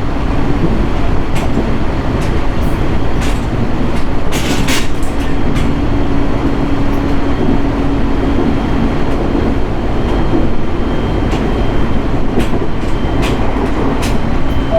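JR East 701 series electric multiple unit running, heard from inside the car: a steady rumble of wheels on rail with a held hum and scattered light clicks, and a short hiss about four and a half seconds in.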